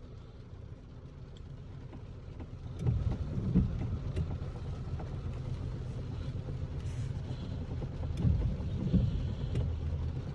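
Noise from a Volkswagen Virtus's steering column as the steering wheel is worked: low thumps with faint clicks, loudest about three seconds in and again near the end, over the car's steady low rumble. The noise is the steering column fault that the owner is tracing.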